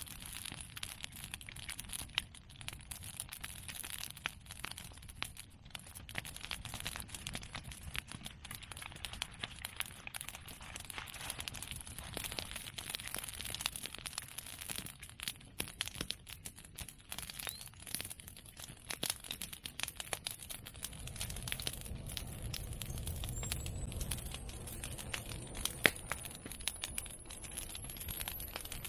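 Open fire of cut women's bamboo and chestnut prunings crackling with dense snaps and pops. A low rumble of flame swells in the second half, a single sharp crack stands out near the end, and a faint rising whistle comes in over the last few seconds.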